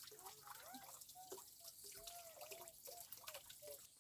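Faint water dripping: a scatter of small, quiet plinks and ticks.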